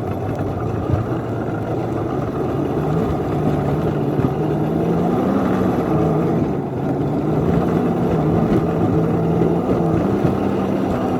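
Locomotive engine running under load while pulling the train up a hill, its pitch rising slightly a few seconds in.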